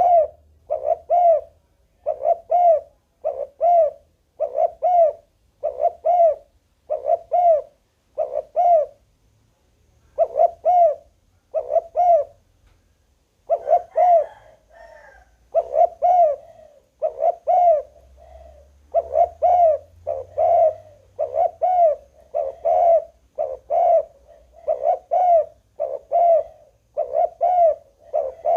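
Spotted dove cooing over and over in short mellow notes, a little more than one a second, with two brief pauses a little before the middle.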